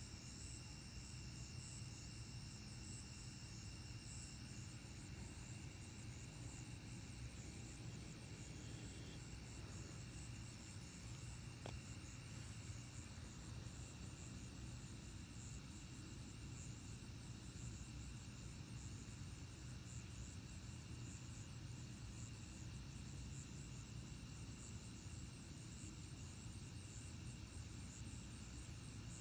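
Steady night chorus of crickets and other insects, trilling at several pitches, faint, over a low steady hum.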